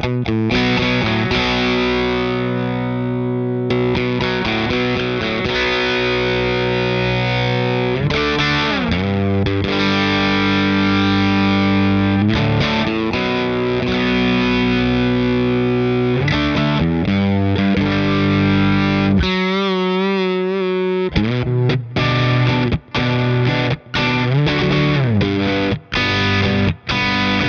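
Electric guitar played through a Ross Distortion at a low-gain setting and a Ross Compressor set for heavy compression, into a Fender '65 Deluxe Reverb reissue amp. It plays a lightly driven lead line of long sustained notes with string bends. A wavering vibrato note comes about two-thirds of the way in, and short choppy notes follow near the end.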